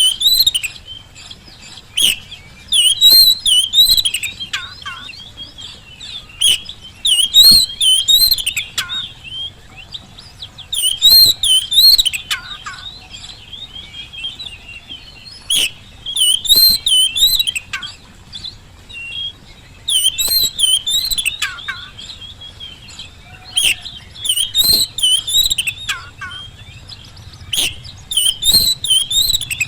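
Oriental magpie-robin (kacer) singing loud, fast, warbling song phrases in bursts of one to three seconds, separated by short pauses, with sharp clicks among the phrases.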